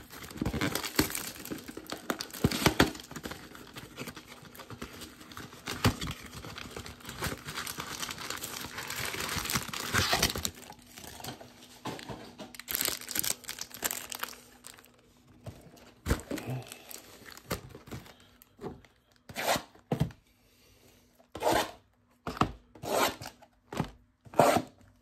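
Cardboard and plastic packaging of trading-card blaster boxes being torn open and card packs crinkling, continuously for about the first ten seconds. Near the end it turns into a string of short separate rips.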